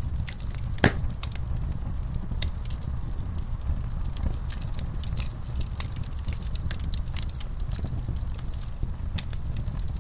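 Fireplace fire crackling, with irregular sharp pops over a steady low rumble of the flames. One louder pop comes about a second in.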